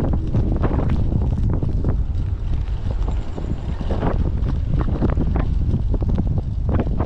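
Typhoon wind buffeting the microphone: a heavy, unsteady rumble of wind noise that swells and dips in gusts.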